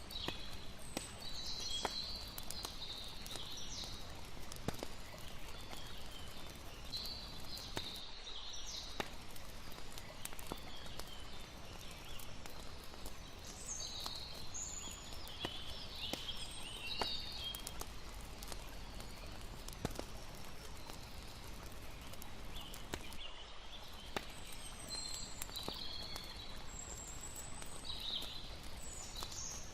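Layered night nature ambience: a campfire crackling with frequent small sharp pops over a steady hiss of water, while high chirping calls come and go throughout.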